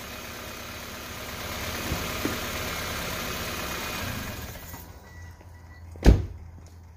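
Car engine idling, then switched off about four and a half seconds in, its sound dying away. About a second later comes a single loud thump.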